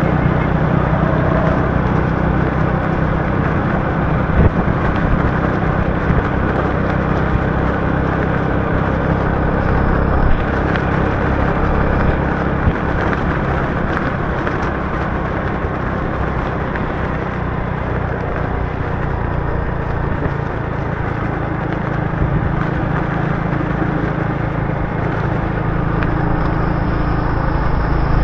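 Motorbike riding through city traffic in the rain: a steady low engine hum under a continuous hiss of wind, rain and wet road, with a few short knocks.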